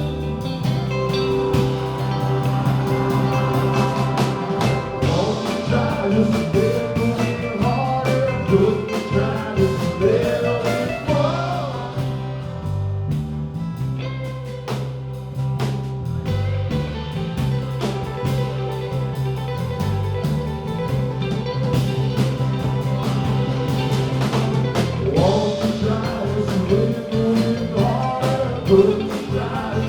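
A live band playing blues-rock, with a guitar carrying bending melodic lines over a steady low accompaniment.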